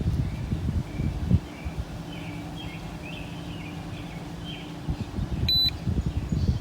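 Short electronic beep of a handheld OBD-II scanner's button press about five and a half seconds in, over faint bird chirps and low rumbling handling noise.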